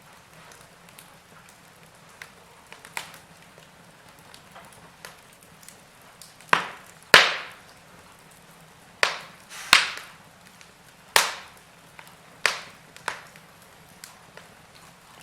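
Burning logs in a fireplace crackling: irregular sharp pops and snaps, a few small ones at first, then a run of loud ones from about halfway through, over a faint steady low hum.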